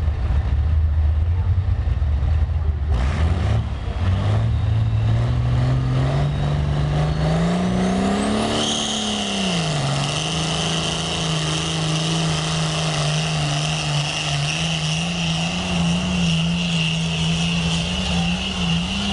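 International Harvester diesel tractor engine running hard under load. Its pitch climbs steadily for about five seconds, dips briefly, then holds high and wavers near the end. A steady high-pitched squeal joins about halfway through.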